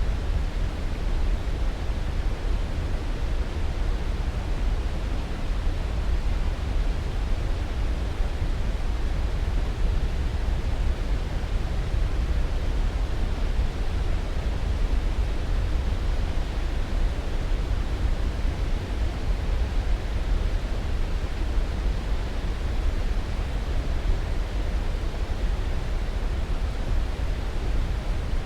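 Steady white-noise sleep sound, an even rushing hiss that never changes, weighted heavily toward the low end so it sounds deep rather than bright.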